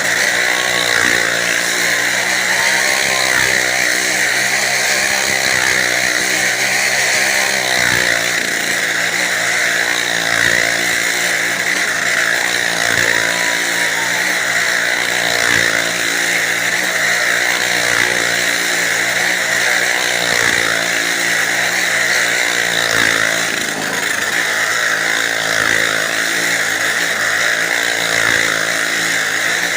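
Motorcycle engines running continuously at high revs as they circle the wall of a well-of-death stunt drum, the pitch wavering slightly as they go around.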